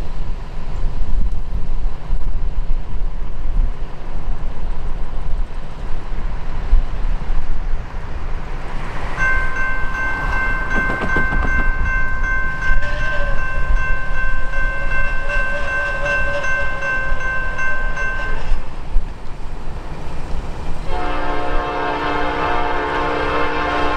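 Nathan P5 horn on a Norfolk Southern GE AC44C6M locomotive sounding a long, steady chord about nine seconds in that lasts roughly nine seconds, then sounding again, fuller and lower, near the end. A low rumble from the approaching train runs underneath.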